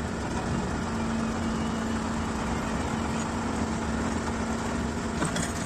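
Truck engine idling steadily, with a brief click about five seconds in.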